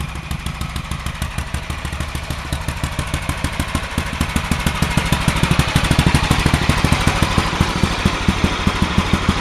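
Small gasoline engine running steadily with an even train of firing pulses, growing louder toward the middle.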